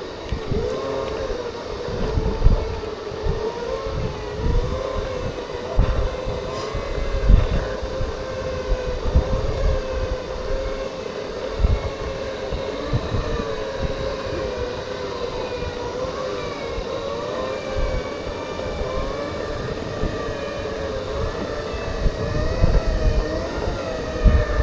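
Segway electric drive motors whining, the pitch wavering up and down as the speed changes, with wind buffeting the microphone in low gusts.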